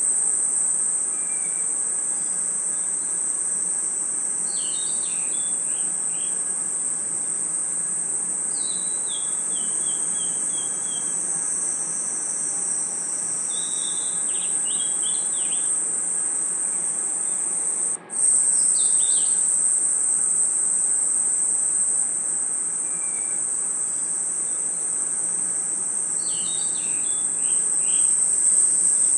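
Dense chorus of crickets and other night insects, a steady high-pitched trill. Every few seconds a short group of chirps steps downward in pitch, and the whole chorus drops out for a split second about two-thirds of the way through.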